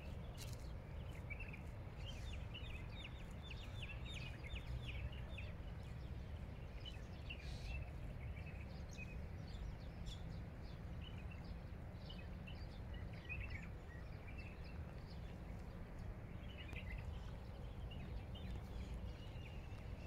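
Small birds chirping in scattered flurries of short, high calls over a steady low background rumble.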